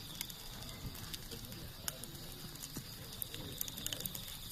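Wood campfire crackling, with irregular sharp pops and snaps over a steady high hum. Faint low rising-and-falling calls or voices sit in the background.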